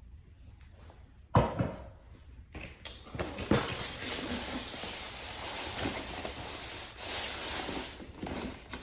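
A sharp knock about a second in, then several seconds of dense crackling and rustling with many small clicks.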